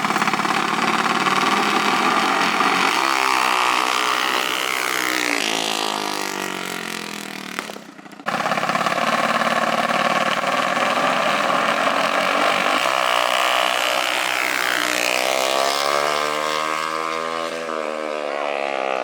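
Small off-road vehicle engines running hard in a drag run, their pitch sweeping and then falling as they pass and pull away, heard twice with an abrupt cut between the two runs about eight seconds in.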